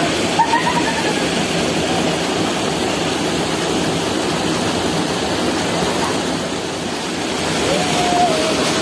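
Steady loud rush of falling or flowing water, as of a river or waterfall, with faint distant voices shortly after the start and near the end.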